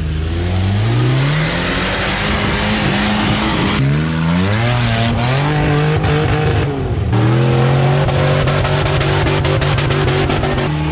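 Off-road rig engines revving hard under load, the pitch climbing several times in a row, with abrupt changes about every three to four seconds.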